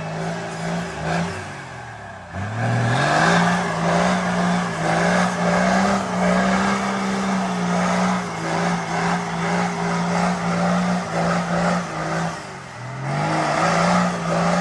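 Off-road 4x4 engine revved hard: the revs climb about two seconds in and are held high with small surges for about ten seconds, then drop and climb again near the end, as the vehicle tries to power through a muddy obstacle.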